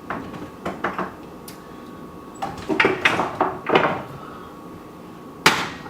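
Seasoning containers knocking and clacking as someone rummages through a kitchen cupboard for a spice: a series of separate knocks, the loudest near the end.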